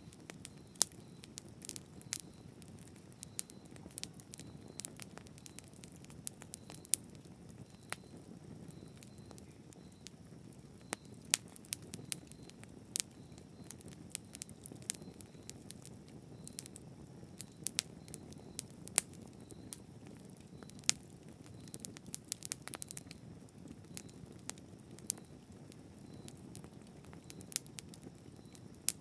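Bonfire burning: a low, steady noise of flames, with irregular sharp crackles and pops from the burning wood, thickest in a cluster about 22 seconds in.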